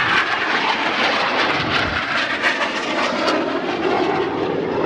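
Steady jet noise from BAE Hawk T1 display jets in flight, with a faint crackle in it.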